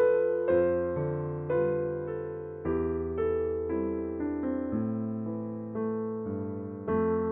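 Slow, gentle background piano music: soft keyboard chords struck about once a second, each fading away, over held bass notes.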